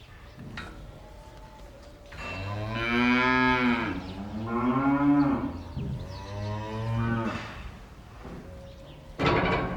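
A cow mooing: three long moos in a row starting about two seconds in, the first falling in pitch at its end. A brief, loud, noisy burst follows near the end.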